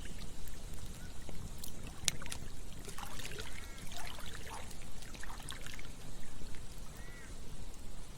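Campfire crackling with scattered sharp pops over a steady low rumble, with a stream trickling and gurgling in the middle and again near the end.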